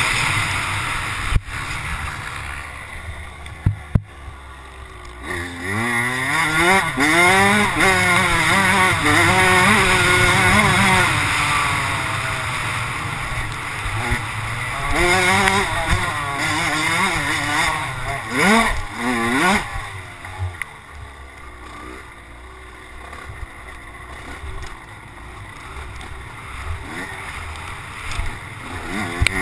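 Kawasaki KX100 single-cylinder two-stroke dirt bike engine being ridden, its revs rising and falling repeatedly, with a quick rev-up near 18–19 s. It runs quieter for a few seconds early on and again in the last third, with a couple of sharp knocks a few seconds in.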